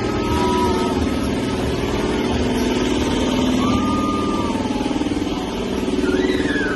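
A steady, rippling motor drone, with a few high voices calling out over it.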